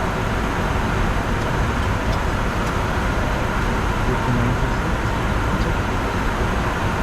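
Steady flight-deck noise of a Bombardier Challenger 605 in flight: airflow rushing over the cockpit and the drone of its twin turbofan engines, a constant even rush with a faint steady hum in it.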